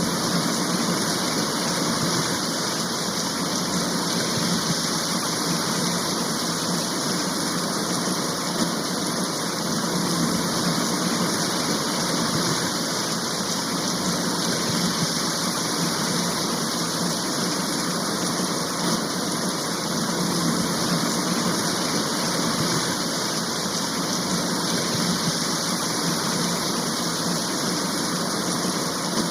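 A rain shower pouring down steadily: an even, unbroken hiss of heavy rain.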